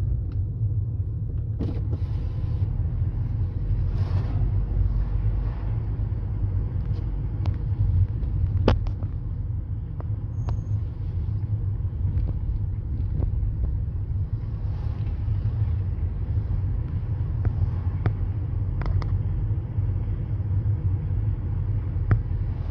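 Car on the move: a steady low rumble of engine and road noise, with scattered small clicks and knocks.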